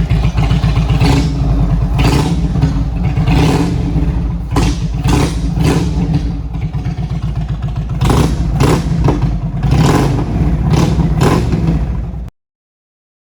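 Indian Roadmaster's big air-cooled V-twin running, with repeated short blips of the throttle. The sound stops abruptly near the end.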